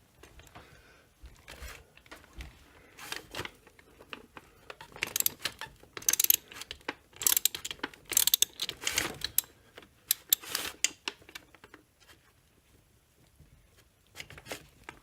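Hand tools clicking and scraping on metal as the chainsaw's crankcase screws are tightened down: clusters of sharp clicks, busiest in the middle, dying away near the end.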